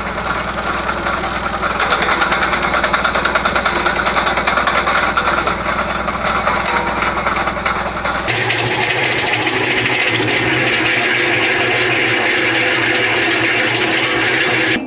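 A wood chipper running, a loud steady machine noise with a fast rattle. The sound changes abruptly about eight seconds in, going thinner and hissier.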